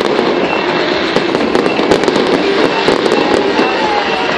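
Fireworks display: a continuous dense crackle of many small bursts and reports, with no single loud bang standing out.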